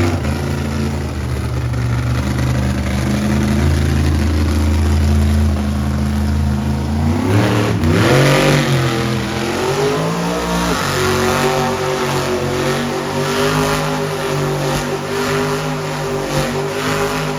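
Monster truck engine running at a low, steady note, then revving up about seven seconds in and holding higher revs with small rises and dips.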